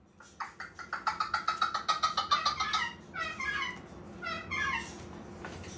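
A parrot calling: a fast run of pitched notes, about eight a second, then a few short phrases of falling notes.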